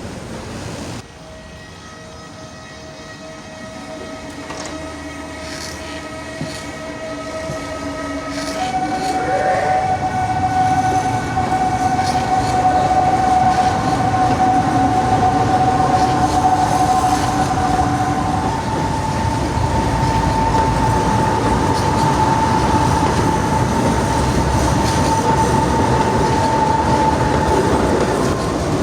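Ivolga 4.0 electric multiple-unit train running through the station. Its traction electrics give a steady whine that steps up in pitch twice as the train's rumble grows louder and then holds loud, with rail clatter beneath.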